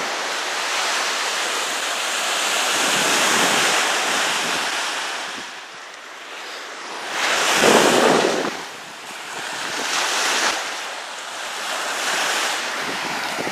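Lake waves washing in on a beach, a hiss of surf that swells and falls back every couple of seconds, loudest about eight seconds in, with wind.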